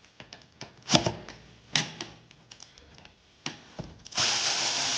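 Brake parts and hand tools being handled on a car's rear brake, giving a few sharp metallic clicks and knocks. About four seconds in, a loud steady hiss starts.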